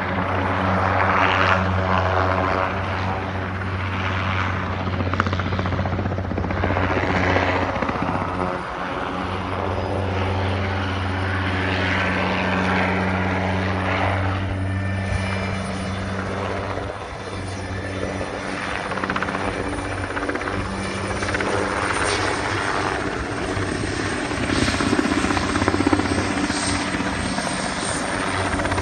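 Helicopter running continuously with a steady low drone, its rotor noise swelling and fading a little as it works a load.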